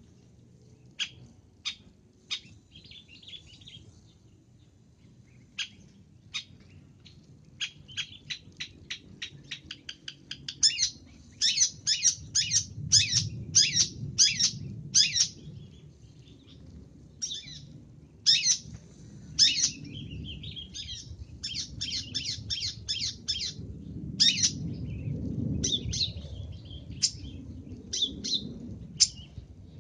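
Long-tailed shrike calling: sharp, high chirps, sometimes singly and sometimes in quick runs of several notes a second, with short pauses between runs, over a faint low rumble.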